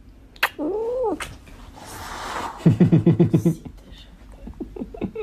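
A cat gives one rising-and-falling meow about half a second in. Then, in the middle, comes a louder, fast stuttering run of pulsed sounds, about ten a second.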